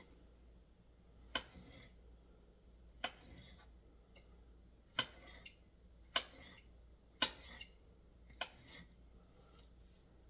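Kitchen knife cutting peppers on a cutting board: six sharp clicks of the blade striking the board, spaced irregularly about one to two seconds apart.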